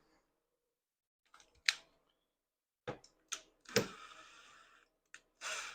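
A few light, scattered clicks and taps of screws and a screwdriver being handled while fitting the snowblower's plastic gas tank, one of them trailing off in a short rattle.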